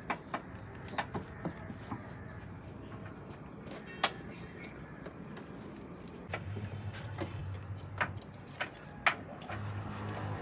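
Scattered sharp clicks and knocks of work on a car, with a few brief high chirps, and a low steady hum that comes in about six seconds in.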